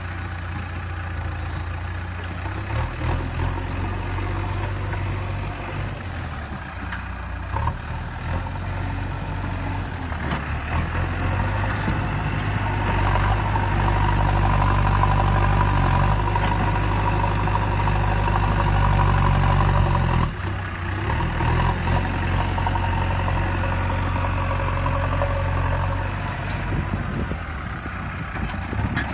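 JCB 3DX backhoe loader's diesel engine running steadily. It revs up and grows louder for several seconds in the middle, then drops back suddenly about two-thirds of the way through.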